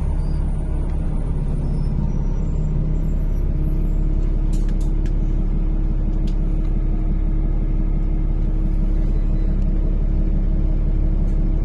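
NefAZ-5299 city bus heard from inside the cabin while driving: a steady engine and drivetrain drone over road rumble, with a few light rattles about five seconds in.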